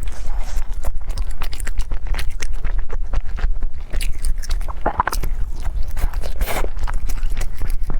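Close-up eating sounds: a person chewing and biting, with many small wet clicks and scrapes, over a steady low hum.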